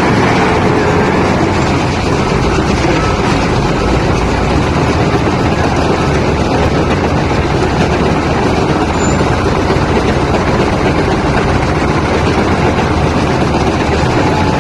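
Lovol FL936H wheel loader's diesel engine running steadily and loud, with no distinct knocks or breaks.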